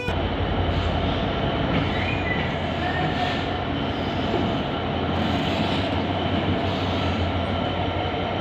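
Diesel locomotive hauling a passenger train past a station platform: a steady low engine hum under a continuous rumble of wheels on the rails.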